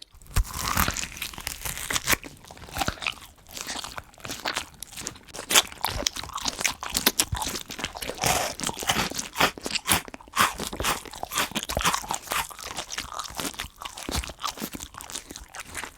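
Praying mantis chewing a cockroach: rapid, irregular crunching and crackling as its mouthparts break through the roach's hard shell.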